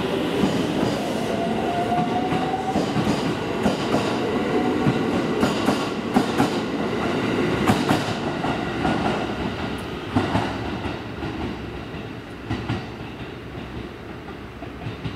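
JR Marine Liner electric train pulling out of a station, its wheels clacking over rail joints, with a short rising whine about two seconds in. The sound fades from about ten seconds in as the train draws away.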